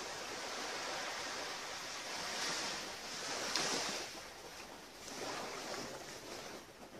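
An even rushing noise like surf or wind, swelling about two to four seconds in and again around five seconds, then easing off.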